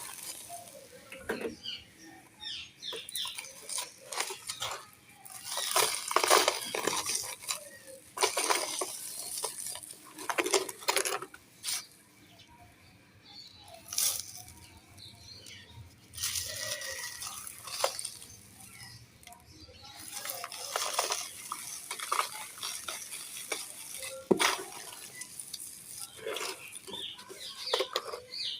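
Dry, dusty black sand and clay-pot pieces crumbling with a crunchy crackle, in irregular bursts with short pauses and a longer lull about halfway through.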